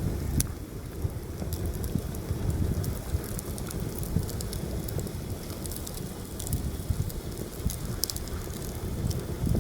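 Wood campfire crackling, with scattered sharp pops and snaps, under heavy wind that buffets the microphone with a steady low rumble.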